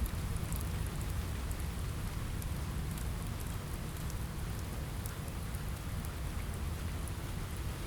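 Steady rain on a window: an even hiss of rain with a low rumble underneath and scattered faint high ticks of drops.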